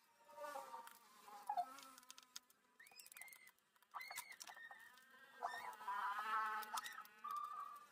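Background bird calls, short pitched calls that bend up and down, with a longer wavering call near the end, along with light clicks and taps from handling a disassembled fan motor.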